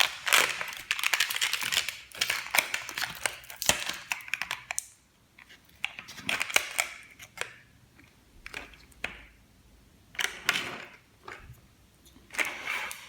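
Plastic packaging being handled: rustling and sharp clicks, dense for the first few seconds, then in separate bursts.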